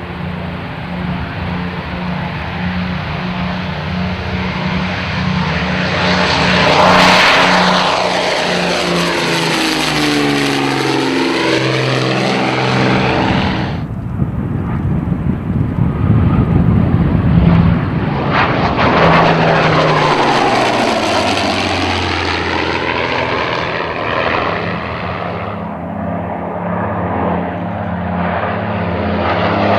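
Twin Rolls-Royce Merlin V12 engines of a de Havilland Mosquito at high power during low-level flybys. The aircraft passes twice, peaking about seven seconds in and again around eighteen seconds. After each peak the engine note drops in pitch as it passes and recedes. It builds again near the end.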